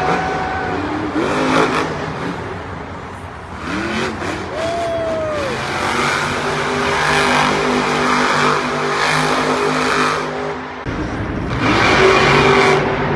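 Monster truck engines running and revving, with pitch sweeping up and falling back, over a noisy arena background; the sound cuts abruptly about eleven seconds in to another loud revving engine.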